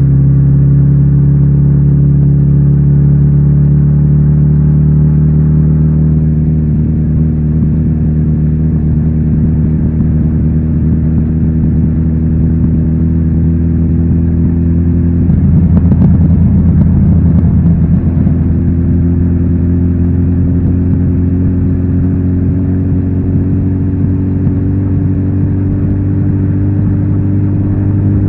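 Kawasaki Z900RS inline-four engine through its stock exhaust, running steadily under way. Its pitch sinks slowly for about half the time, turns rougher and noisier for a couple of seconds, then climbs gently again.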